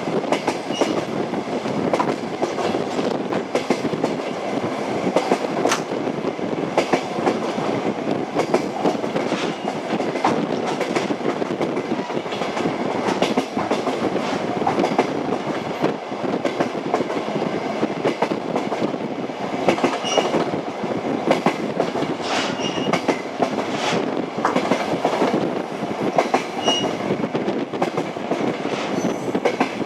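Train wheels running on rails: a steady rumble with frequent clickety-clack knocks and a few brief high squeaks.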